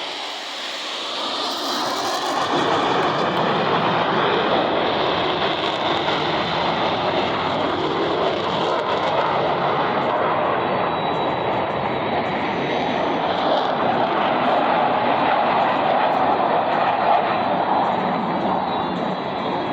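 Jet engines of Boeing F/A-18 Super Hornets passing in a flyby: a loud, steady rushing roar that builds over the first few seconds and eases a little near the end.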